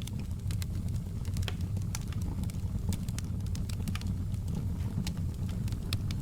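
Wood fire crackling in a fireplace: a steady low rumble with irregular sharp pops and snaps, a few each second.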